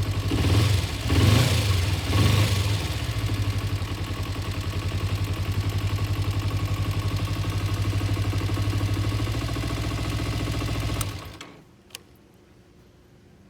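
2006 Kawasaki Ninja 250's parallel-twin engine blipped three times, settling back to a steady idle, then shut off about eleven seconds in. A single sharp click follows about a second later.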